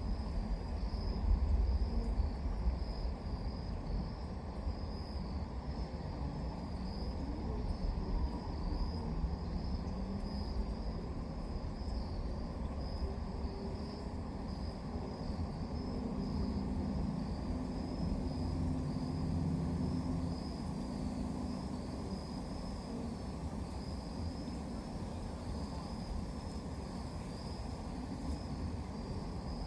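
Crickets chirping steadily in a high, even pulsing trill over a constant low rumble.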